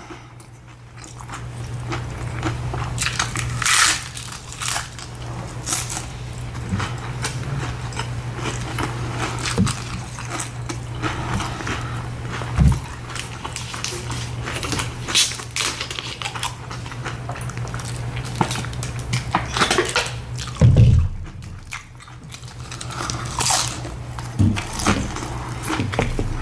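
Close-up eating sounds of tacos being bitten and chewed: irregular crunchy bites and mouth noises, over a steady low hum.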